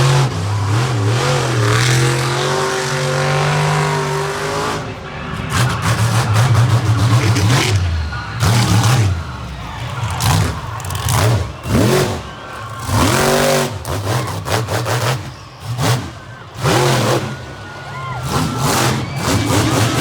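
Monster truck engine revving hard in repeated throttle bursts, its pitch rising and falling and dropping off between bursts.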